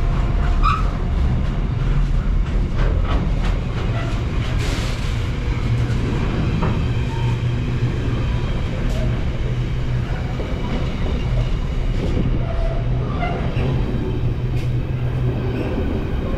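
Class 66 diesel freight locomotive with its two-stroke V12 engine running, and its train rolling along: a steady low engine drone over rail noise, with scattered clicks and knocks from the wheels on the track.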